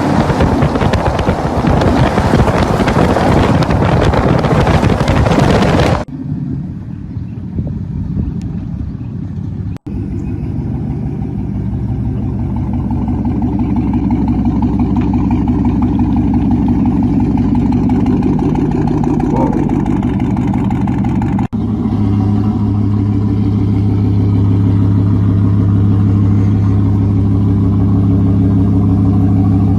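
Loud rushing wind and road noise for about six seconds. After a cut, a pickup truck's straight-piped exhaust drones steadily at a low pitch while cruising, with a couple of abrupt cuts between clips.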